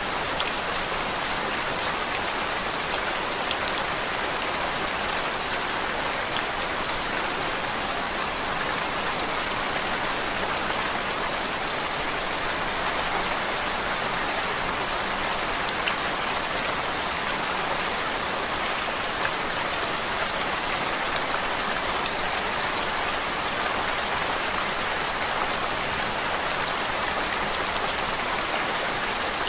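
Steady rain, an even hiss with scattered faint drop ticks, played as a white-noise background.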